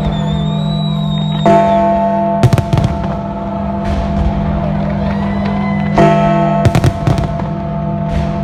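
Fireworks exploring the sky: a high whistling shell in the first second or so, then sharp bangs in two clusters, about a second and a half in and again around six to seven seconds in. Sustained music plays underneath.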